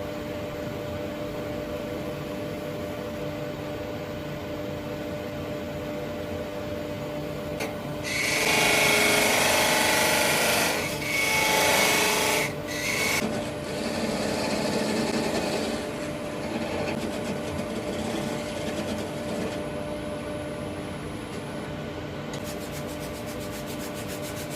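Wood lathe and dust extractor running steadily, with a hissing scrape of a tool or abrasive against the spinning burr elm vase starting about a third of the way in. The scrape is loudest for about five seconds, then comes back lighter and fades.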